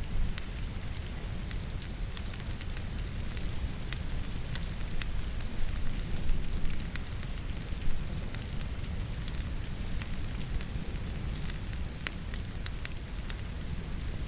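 Wood fire crackling in a fireplace, with many sharp irregular pops, over a steady hiss of rain and a low rumble.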